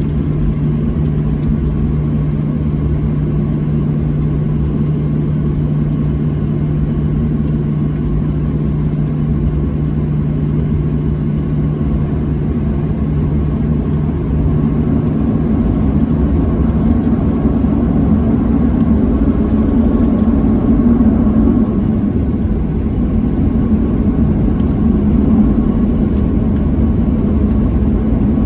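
Cabin noise of a Boeing 737-700 with CFM56-7B turbofan engines: a steady hum with a low tone, then about halfway through the engines spool up and the rumble grows louder as the takeoff roll begins.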